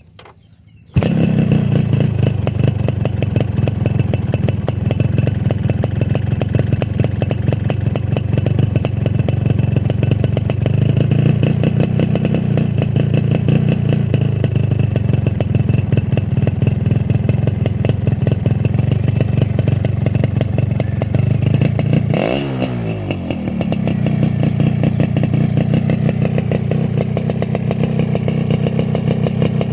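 Yamaha RX-King two-stroke single-cylinder engine idling through its stock exhaust, with a fast, even rattle. It comes in abruptly about a second in, and about two-thirds of the way through it gets one quick blip of the throttle, its pitch jumping up and falling back to idle.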